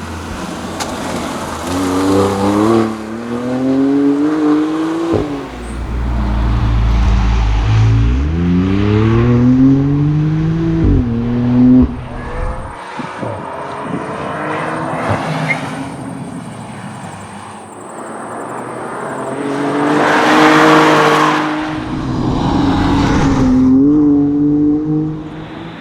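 BMW M2 Competition's twin-turbo inline-six accelerating hard, the revs climbing and then dropping sharply at each upshift, twice in quick succession early on. It then runs lighter for several seconds before a loud rush of noise about twenty seconds in and another climb in revs.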